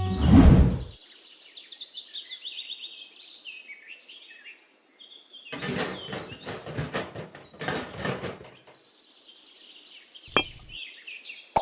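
Birds chirping in quick short calls, then a burst of rapid clicks and knocks, then a high trill and one sharp knock near the end.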